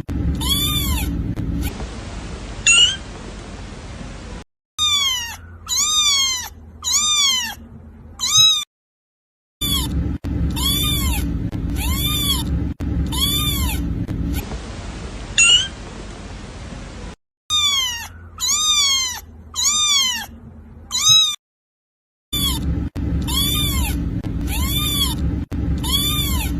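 Kitten meowing: runs of short, high mews, each rising and then falling in pitch, several in quick succession. The runs are cut apart by abrupt silent gaps and repeat as a loop.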